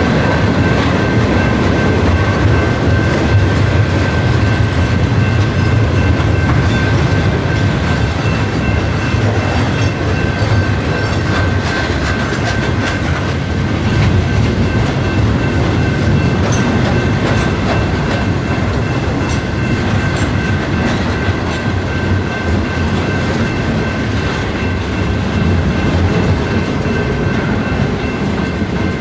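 A train rolling past on the track, its wheels clicking over the rail joints over a steady heavy rumble, with a thin steady high whine on top.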